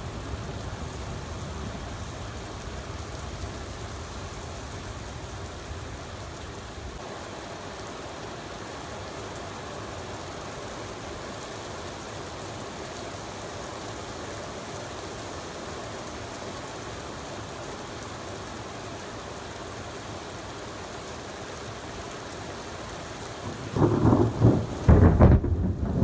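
Thunderstorm: steady heavy rain throughout, with a low thunder rumble dying away over the first several seconds. About two seconds before the end, a loud crack of thunder breaks in and keeps rumbling.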